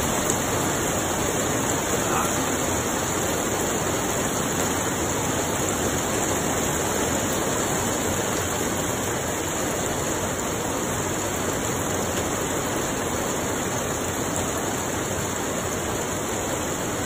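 Steady hiss of heavy rain falling during a thunderstorm, even and unbroken throughout.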